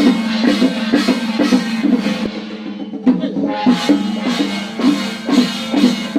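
Drum-led percussion music with a steady beat of about two strokes a second over a sustained low tone.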